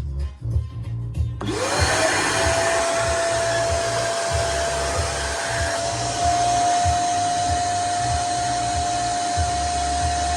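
Nunix wet and dry vacuum cleaner switched on about a second and a half in: its motor whine rises quickly to speed, then runs steadily with a loud rush of air.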